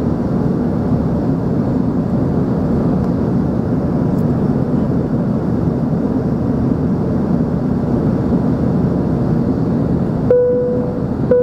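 Steady engine and airflow noise inside the cabin of an Embraer ERJ-145 climbing out, from its two rear-mounted turbofans. Near the end a short steady tone sounds twice.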